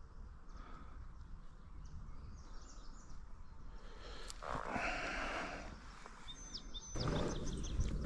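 Riverside outdoor ambience with a steady low rumble, a rush of noise lasting about a second near the middle, and short high bird chirps near the end.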